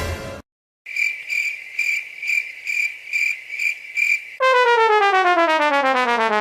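Crickets chirping, about two chirps a second, the comedy 'awkward silence' effect. About four seconds in, it gives way to a long, steadily falling tone with many overtones, a slide-down 'fail' sound.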